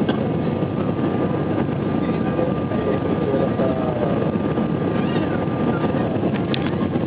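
Steady rushing engine and airflow noise inside an Airbus A320's passenger cabin in flight, with a faint steady whine.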